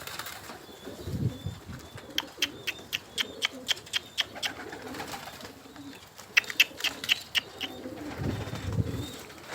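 Domestic pigeons cooing in low warbling runs about a second in and near the end, with quick series of short, sharp chirps repeating about four times a second between them.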